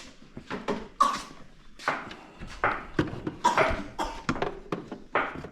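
Irregular knocks, taps and clicks of parts and tools being handled, a few a second, with a sharper knock about a second in.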